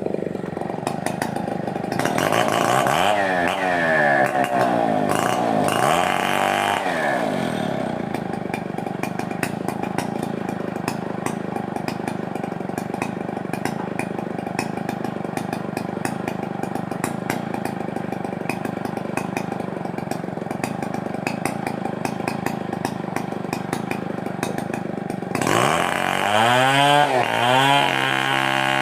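Stihl 070 two-stroke chainsaw running loud, its revs sweeping up and down a few seconds in, then holding steady for a long stretch, then revving up and down rapidly near the end.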